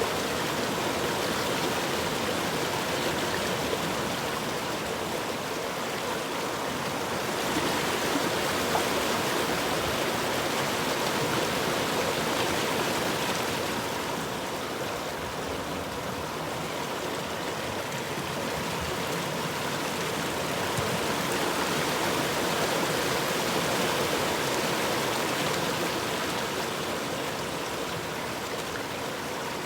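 River water flowing with a continuous rushing sound that swells and eases slowly over several seconds.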